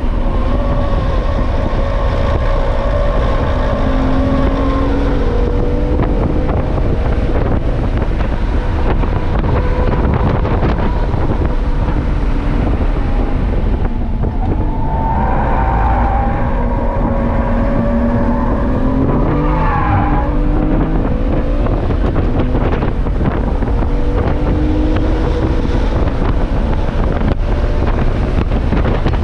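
Sports car engine driven hard on a race track, its pitch climbing and falling through acceleration, braking and gear changes, with one sharp climb about two-thirds in that drops away suddenly. Wind buffets the microphone.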